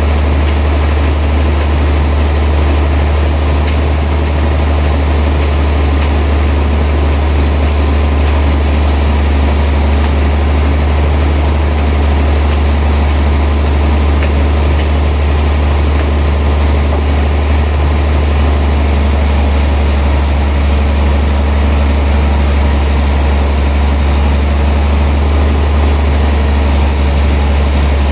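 Sawmill machinery running steadily: a loud, unchanging low drone with a constant noisy hiss above it.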